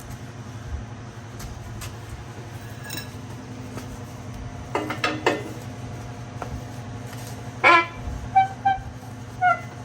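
Metal clanks and short ringing clinks over a steady low hum as a blown small-block Chevy engine is rolled over on its stand to dump out broken parts. There are a pair of knocks about five seconds in and a louder clank near eight seconds, followed by three lighter clinks.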